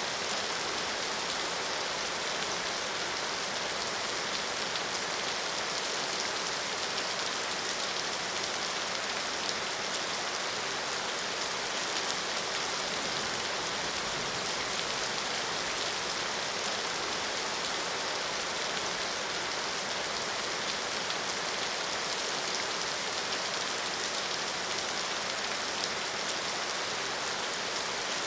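Steady rain falling, an even hiss of many drops with fine pattering ticks, without change in strength.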